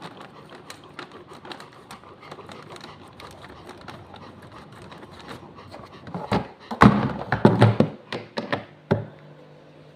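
Handling noises: faint scattered clicks, then a loud burst of knocks and rustling from about six to nine seconds in.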